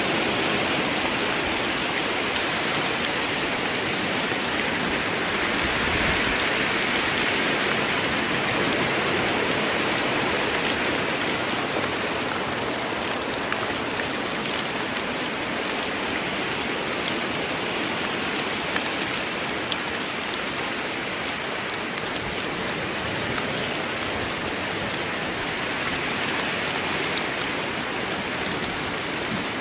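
Steady rain falling in a forest, a continuous even hiss of drops on leaves and ground, with fine individual drop patters scattered through it.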